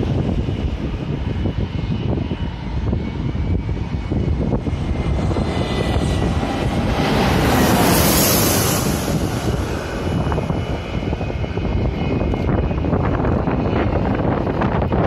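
Airliner passing low overhead: its engine noise swells to a loudest point about halfway through and then eases off, its pitch dropping as it goes by. A deep rumble of wind on the microphone runs underneath.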